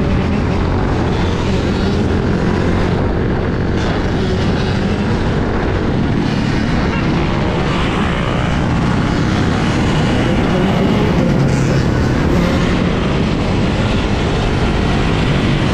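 Steady, loud wind rush buffeting the microphone of a helmet or bike camera while riding a dirt bike at speed, with road and tyre noise underneath.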